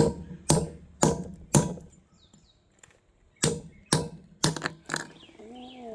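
Big hammer striking a railroad spike driven into a chunk of milky quartz, metal on metal. There are four blows about two a second, a pause of nearly two seconds, then another quick run of four or five blows.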